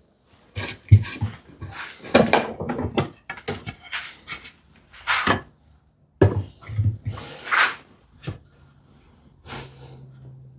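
Veritas router plane taking a few short scraping passes over a wooden tenon cheek, creeping the fat tenon down toward a snug fit. Wooden knocks and clatter come between the strokes as the plane and workpiece are handled.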